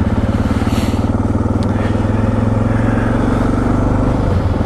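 Suzuki DR650SE's single-cylinder four-stroke engine running steadily under way, with a brief dip near the end.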